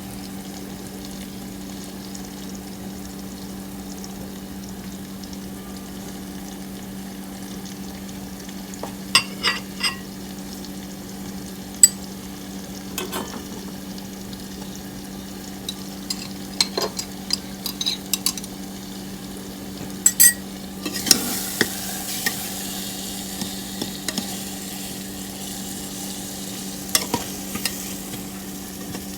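Food frying in a pan over a steady hum, with a spoon clinking and scraping against the pan now and then as it is stirred. About two-thirds of the way through, the sizzling hiss grows louder for a few seconds.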